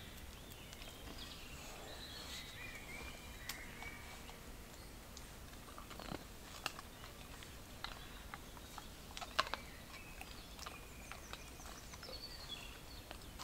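Faint birdsong of short chirps, with a few quiet knocks and snaps in the middle, the sharpest about nine seconds in.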